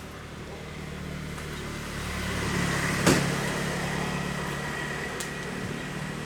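A motor vehicle's engine running, growing louder about two seconds in and then easing off, with one sharp click about three seconds in.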